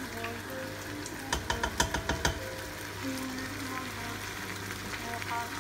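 Background music over faint sizzling of potatoes and pork frying in a cooker pot. About a second in, a quick run of clicks and knocks from a spatula stirring against the pot.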